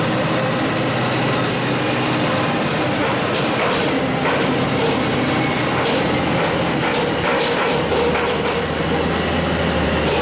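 Heavy farm machinery running steadily at work, with an engine hum under a loud, constant mechanical noise and scattered knocks and rattles.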